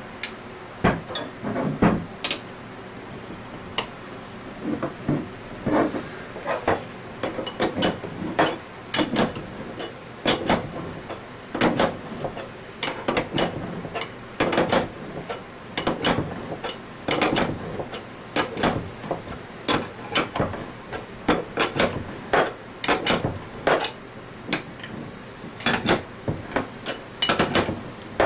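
Repeated sharp metallic taps in irregular runs, a few a second: a needle bearing being tapped into its bore in an Anest Iwata ISP250 scroll pump's scroll.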